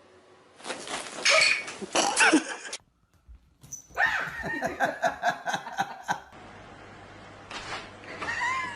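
A dog barking and yelping: a first loud burst of calls, a brief silence, then a quick run of repeated barks, with one more rising call near the end.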